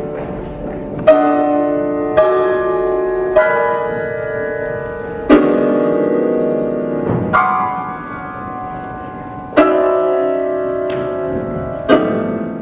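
Piano music: slow chords struck one at a time, about seven in all, each left to ring and fade before the next.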